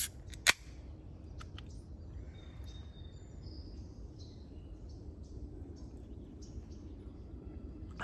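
Outdoor ambience: birds chirping over a steady low rumble, with one sharp click about half a second in.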